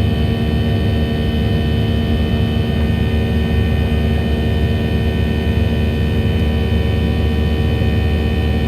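Steady jet engine noise heard inside the cabin of a Boeing 737-700: a constant low rumble with a steady whine from the CFM56 turbofans, unchanging throughout.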